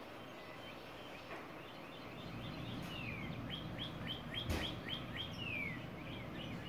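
A bird chirping faintly in a quick run of short repeated notes, with a couple of longer falling notes among them. One short soft knock sounds about four and a half seconds in.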